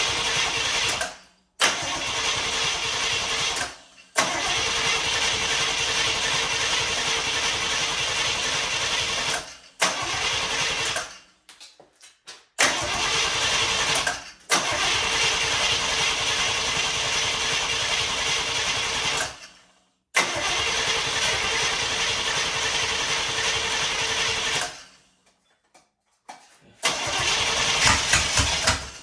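Chevrolet 454 big-block V8 being cranked over by its starter in a series of long bursts separated by short pauses, trying to draw fuel and fire.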